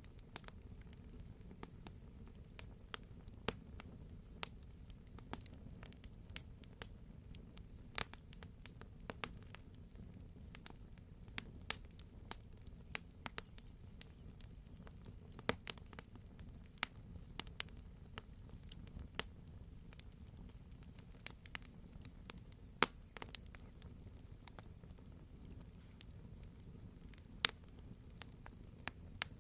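Wood campfire crackling: irregular sharp pops and snaps, at times several a second, over a low steady rumble, with one louder pop near the end.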